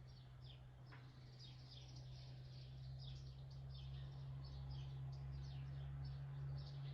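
Small birds chirping outdoors, a rapid run of short falling chirps several times a second, over a steady low hum.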